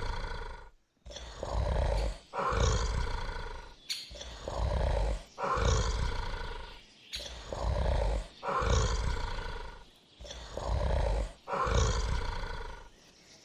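Bear roaring again and again: about ten rough roars, each a second or so long, with short breaks between them.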